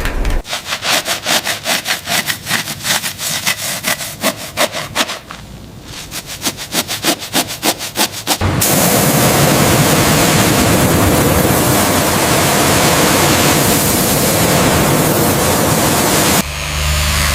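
Fast rhythmic rubbing strokes, about five a second, like hand sanding or scrubbing, easing briefly around five seconds in. From about eight and a half seconds a loud, steady hiss takes over, and near the end it changes to a lower humming sound.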